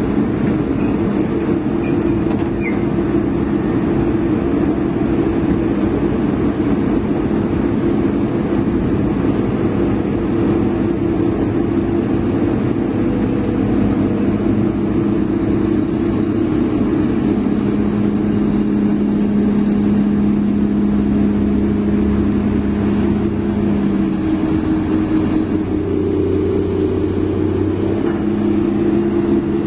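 Heavy diesel engine running steadily, its pitch shifting slightly a few times in the second half.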